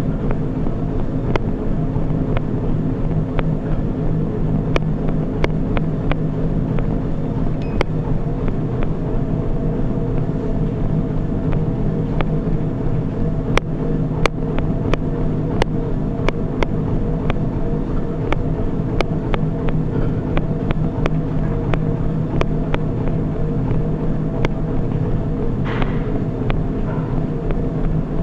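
Treadmill running steadily under a runner: a constant motor and belt hum, with scattered sharp clicks and knocks from footfalls on the deck.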